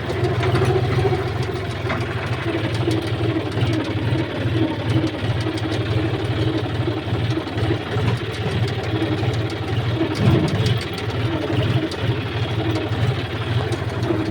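Heavy diesel engine of a tractor or backhoe loader running steadily, with a low, even throb.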